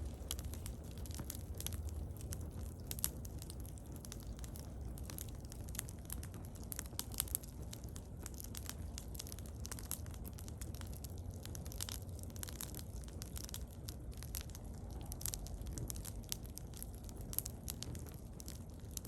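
Wood bonfire crackling, with frequent irregular sharp pops and snaps over a low steady rumble.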